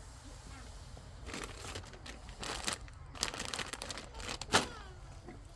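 Irregular crinkling and rustling of plastic and packaging being handled, with a sharp knock about four and a half seconds in.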